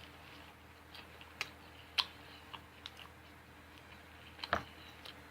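A person chewing food close to the microphone, with scattered small wet clicks and crackles from the mouth. Sharper clicks come about two seconds in and again near the end.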